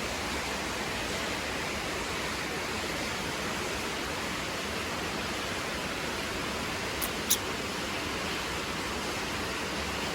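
Steady, even hiss of heavy rain falling. Two brief high-pitched sounds come about seven seconds in.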